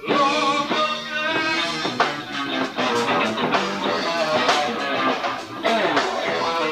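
Live rock band playing an instrumental passage: guitar out front over bass guitar and drums. The band drops out for a moment right at the start, then comes straight back in.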